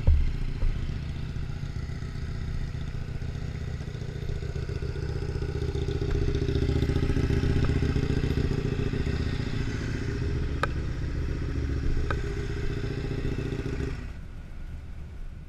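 Motorcycle engines running steadily, louder in the middle and fading away near the end, with a couple of sharp clicks about two-thirds of the way through.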